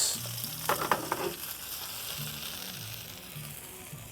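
Angus beef burger patties sizzling steadily as they fry, a continuous high hiss.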